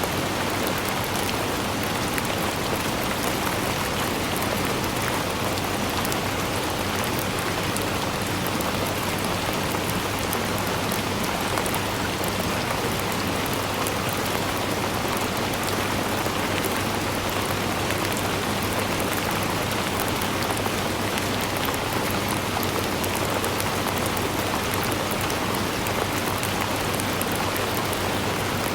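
Steady rain falling, an even hiss with many fine drop ticks on top, unchanging throughout.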